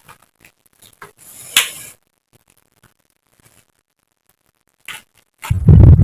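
Close-miked eating: small wet mouth clicks and a short crisp crunch of raw vegetables being bitten and chewed. About five and a half seconds in, a loud, muffled low rumble starts.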